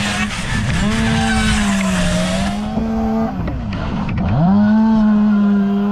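A small high-revving engine running at a steady high pitch, sagging twice, deeply about four seconds in, and climbing back each time. A loud hiss runs over it for the first two and a half seconds, then stops abruptly.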